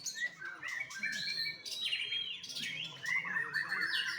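Young white-rumped shama (murai batu) singing a continuous, varied song of clear whistles, quick trills and rising and falling chirps.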